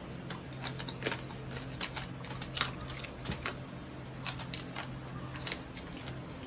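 Crackling skin of a deep-fried pork knuckle (crispy pata) crunching in a series of short, sharp, irregular cracks as it is bitten and broken into.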